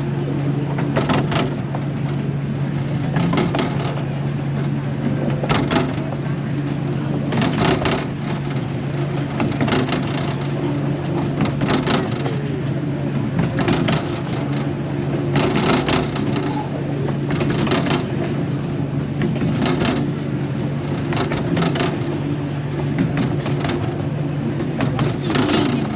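Miniature railway passenger carriage running along the track: a steady low hum, with the wheels clacking and rattling over the rail joints about every two seconds.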